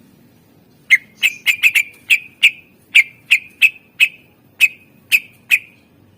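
Cucak ijo (green leafbird) calling a series of about a dozen short, sharp whistled notes at irregular intervals, two or three a second, starting about a second in.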